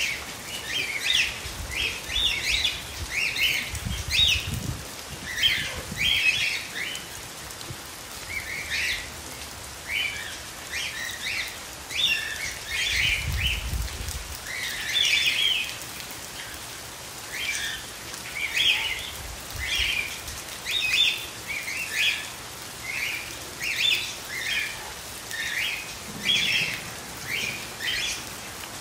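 Steady rain falling, with a bird chirping repeatedly in short high chirps about once a second. There are two brief low rumbles, one about four seconds in and one about thirteen seconds in.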